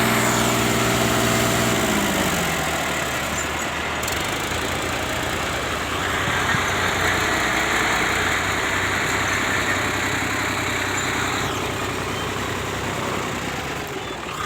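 Tractor engine running under throttle, its revs dropping about two seconds in, then running on rough and steady.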